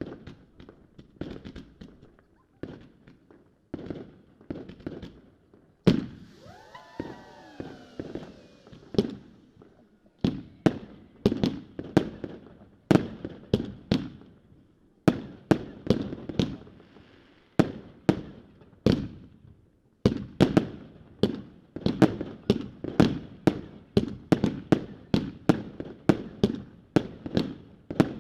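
Consumer fireworks going off in a rapid string of sharp bangs, denser in the second half, about two or three a second. A whistle sliding down in pitch cuts through them for a few seconds about six seconds in.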